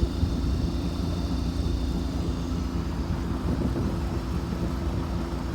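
A sailboat's inboard engine running steadily at a constant speed while the boat motors under way.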